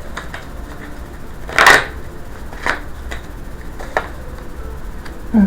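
Tarot cards being handled and laid out on a table: one short, louder swish of cards about a second and a half in, then a few light taps and clicks.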